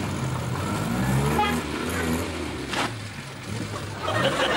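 Car engines running and revving as cars drive off, with a brief sharp click in the middle.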